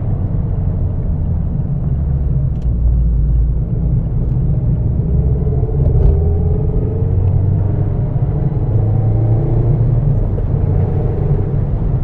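2022 Mazda MX-5 Miata's 2.0-litre four-cylinder engine and road noise from inside the car while driving: a steady low rumble, with the engine note climbing in pitch under acceleration twice, from about five seconds in and again from about eight seconds.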